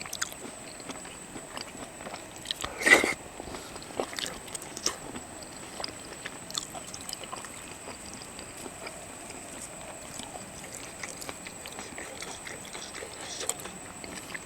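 A person eating seafood: quiet chewing and biting with scattered small clicks and scrapes of food and shells being handled, and one louder short sound about three seconds in.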